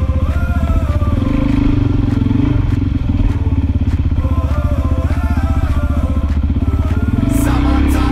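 Motorcycle engine running steadily, its exhaust pulses coming fast and even, with no pause or clear change in pace.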